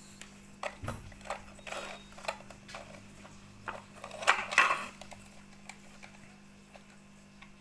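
Irregular clicks and clinks of small metal parts and tools being handled while working on an LED street light fixture and its driver, with a burst of louder clatters about halfway through. A faint steady low hum runs underneath.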